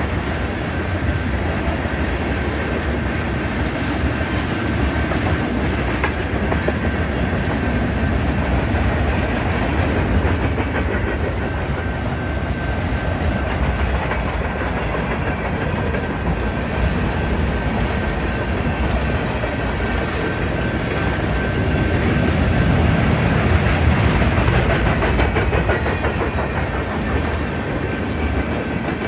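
Union Pacific freight train rolling past at trackside: steady rumble with the clickety-clack of wheels over rail joints and a thin steady high tone above it, a little louder near the end.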